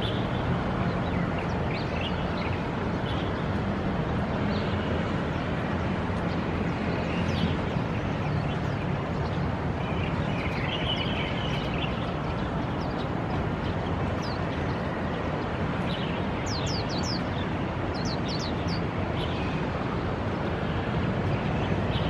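Swinhoe's white-eye giving scattered short, thin, high calls, with a buzzier call about halfway through and a quick run of high falling notes a few seconds before the end. All of it sits over a steady low background rumble.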